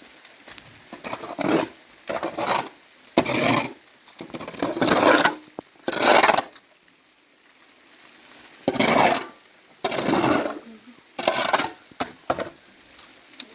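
Repeated rough scraping strokes, about nine of them at uneven intervals with a pause midway, each lasting under a second.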